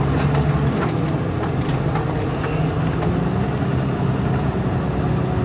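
Heavy machine's engine running steadily at a low, even drone, with a few faint rattles and ticks over it.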